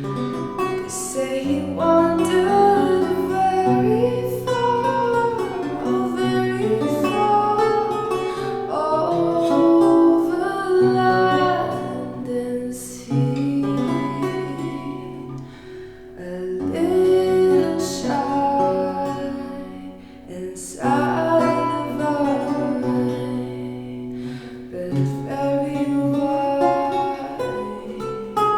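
A woman singing a slow jazz melody to a plucked archlute accompaniment, the lute's low bass notes sounding under the voice.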